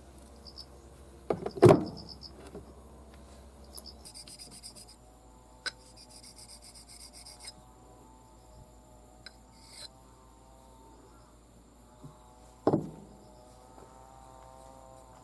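Metal parts being handled at a workbench: two loud clanks, about two seconds in and near the end, the second one ringing briefly, with small clicks and rubbing in between. Crickets chirp faintly in the background.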